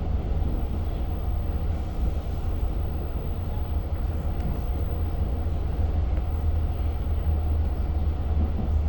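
Steady low rumble inside a moving Long Island Rail Road passenger coach running between stations: wheels on the track and the train's running gear, even throughout with no speech or announcements.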